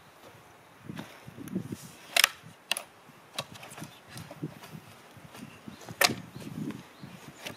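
Axe chopping into a log while splitting firewood: sharp wooden blows, the heaviest about two seconds in and again about six seconds in, with lighter knocks between.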